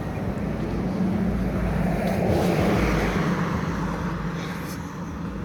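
A car passing by: its noise swells to a peak about halfway through and then fades, over a steady low rumble of traffic.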